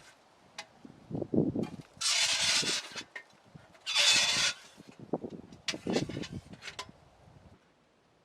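Camping gear being handled and packed away: a few rustling, scraping bursts about a second long with soft knocks and clicks between them, stopping shortly before the end.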